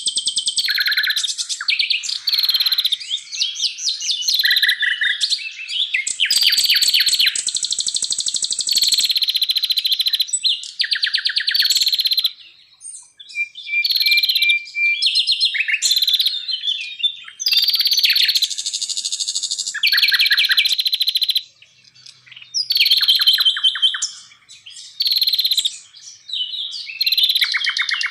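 Songbirds singing in quick phrases: rapid high trills and buzzy chattering runs, each a second or two long, following one another with short gaps.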